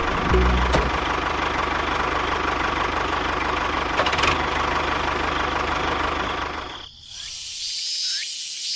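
A steady, engine-like mechanical running noise with a low rhythmic pulse, which stops abruptly about seven seconds in. A few short, repeated chirps follow.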